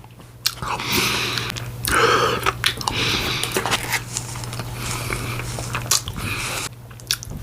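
Close-miked, fast eating of a Dairy Queen Blizzard: mouthfuls and chewing of soft ice cream with sharp clicks at irregular moments, over a steady low hum.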